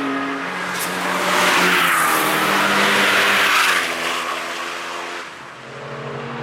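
A car at speed passing close by on the track: its engine note rises into a loud rush of tyre and wind noise and then drops in pitch as it goes past, about two to four seconds in, with the engine of another car still audible as it fades.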